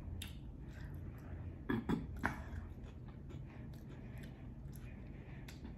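Chewing and mouth noises of a person eating, with a brief cluster of three louder throat or mouth sounds about two seconds in.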